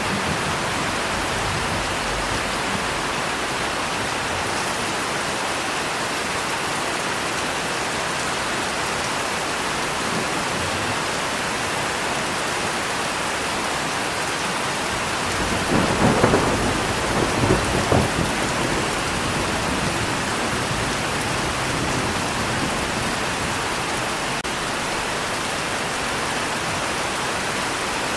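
Steady heavy rain, with a crack and roll of thunder about halfway through, the loudest moment, lasting around three seconds.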